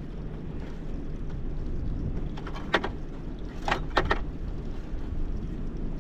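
Steady low rumble of wind and water around a small fishing boat. A few short, sharp sounds come through it: one nearly three seconds in, and two close together about a second later.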